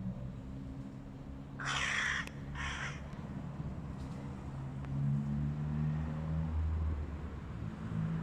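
A hooded crow gives two harsh caws in quick succession about a second and a half in, over a steady low rumble.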